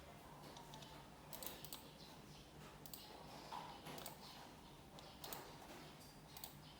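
Faint, irregular clicking of a computer keyboard and mouse, a few scattered clicks at a time over a low steady hum.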